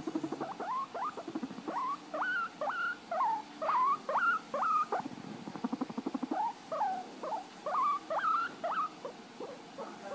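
Rats squeaking: two runs of short, rising squeaks, a couple each second, with a brief pause about five seconds in.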